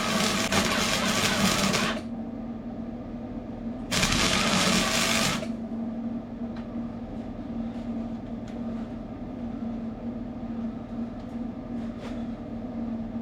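Arc welding on cracked exhaust extractors: the arc crackles in two bursts, the first about two seconds long and the second, about four seconds in, a second and a half long, over a steady low hum. A few faint ticks follow.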